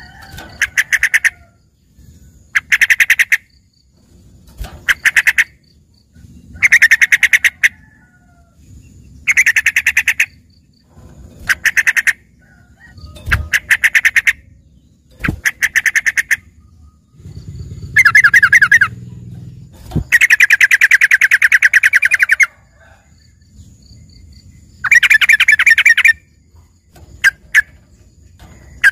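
Yellow-vented bulbul (trucukan) singing its learned 'isian' song, which sounds like a green leafbird (cucak ijo). The song comes in about a dozen bursts of fast repeated notes, each one to two seconds long, with one longer burst past the middle.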